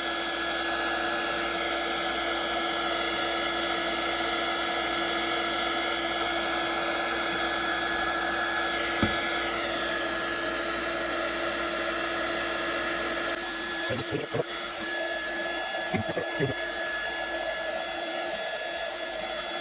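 Electric heat gun running steadily, its fan blowing with a constant hum, heating a plastic blower tube to soften it. A few light knocks of handling come about two-thirds of the way through.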